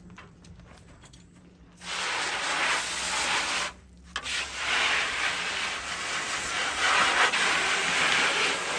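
Hissing spray from a hose, in two long bursts with a short break about four seconds in.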